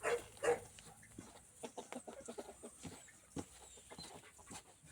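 A couple of short animal calls in the first half second, then scattered light clicks and knocks.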